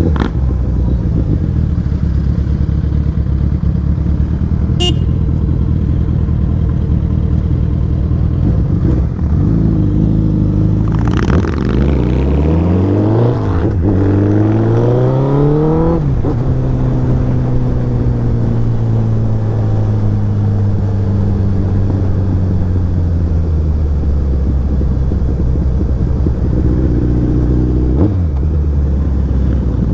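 Royal Enfield Interceptor 650's parallel-twin engine, fitted with an aftermarket Motowings exhaust, running steadily while riding. About eleven seconds in it revs up, drops briefly at a gear change and climbs again, then eases off in a long falling note and settles back to a steady run.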